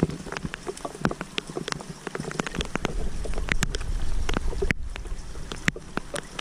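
Rain falling, heard as a steady hiss with many sharp, irregular ticks of drops landing close to the microphone; a low rumble swells through the middle.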